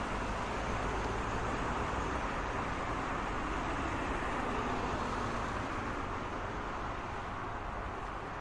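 Steady road traffic: a continuous wash of car tyre and engine noise with a low rumble, easing slightly near the end.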